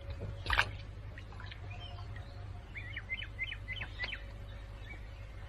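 Small birds chirping, with a quick run of short repeated notes in the middle, over a steady low outdoor rumble. A single sharp knock sounds about half a second in.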